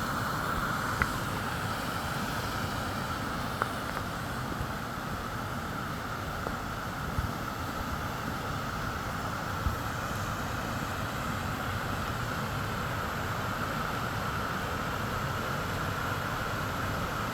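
Steady rush of running water, even throughout, with a few faint clicks.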